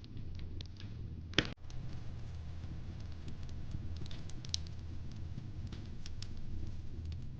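Fireplace crackling: scattered small pops and snaps over a steady low rumble, with one sharper, louder pop about a second and a half in.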